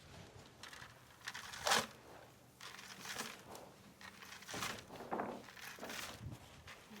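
Grain feed being dug out by hand and tipped into a cattle feed trough: a series of about five rustling, crunching strokes, the loudest about a second and a half in.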